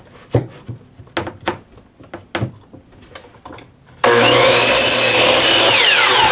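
A few knocks of a cedar fence board being handled and set in place. About four seconds in, a power saw starts abruptly and runs loud through the cut, its whine falling in pitch near the end.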